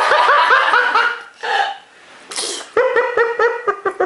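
High-pitched laughter in quick, repeated bursts. A short, sharp sneeze-like burst comes about two seconds in, between the two bouts of laughing.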